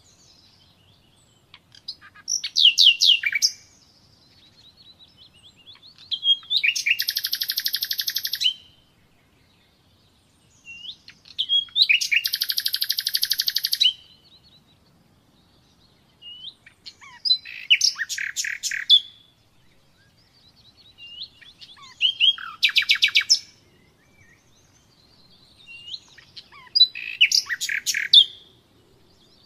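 Common nightingale singing: six loud phrases of fast repeated notes and rattling trills, each a second or three long, separated by pauses of a few seconds.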